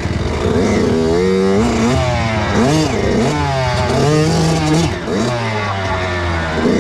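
Kawasaki KX85 two-stroke dirt bike engine revving hard, its pitch climbing and dropping again and again as the throttle is opened and closed.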